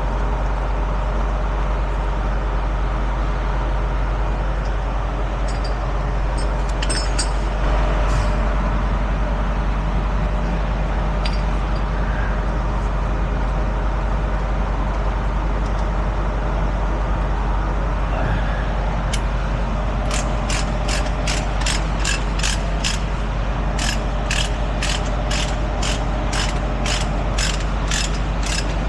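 A truck's engine idling steadily, with a few scattered clicks; about two-thirds of the way in a regular metallic clicking starts, about two clicks a second, pausing briefly once.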